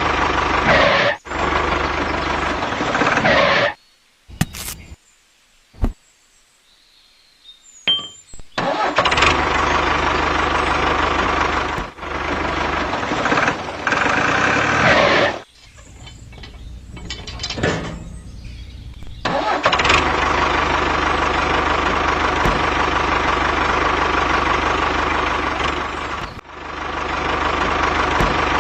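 Small engine of a DIY mini tractor running steadily, broken by sudden drops to near silence a few seconds in and again about halfway through.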